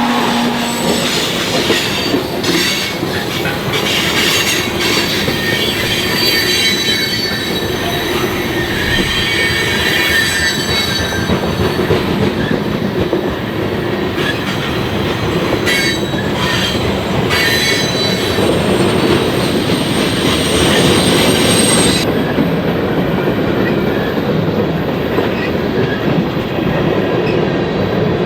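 Train cars rolling past close by, wheels squealing in thin high tones over a steady rumble, with occasional clacks over rail joints.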